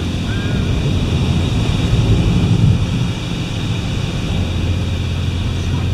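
Car wash machinery running: a steady low hum under a broad, even hiss.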